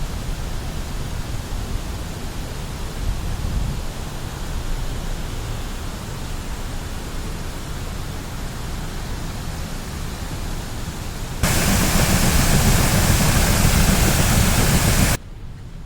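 Steady outdoor rushing noise with a deep rumble. About three-quarters through it jumps abruptly to a much louder rush for a few seconds, then drops sharply to a quieter hiss.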